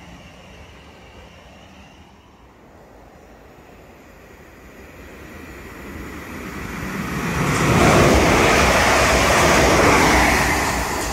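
A South Western Railway Class 450 electric multiple unit passing the platform without stopping: the rumble of wheels on rails builds over several seconds as it approaches. It is loudest for about three seconds as the train goes by close, then starts to fade near the end.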